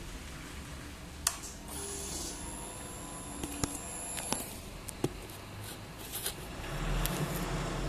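Several sharp clicks and a high steady whine lasting about two and a half seconds, over a faint low rumble. Near the end the low running sound of the Suzuki GSX-R600 engine rises again.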